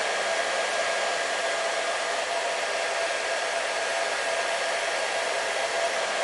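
Hair dryer blowing steadily, a constant airy rush with a faint motor hum that doesn't change.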